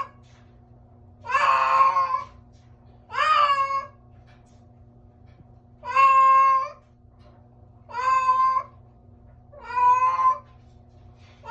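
Domestic cat meowing repeatedly: five separate drawn-out meows, each under a second long, with short pauses between them.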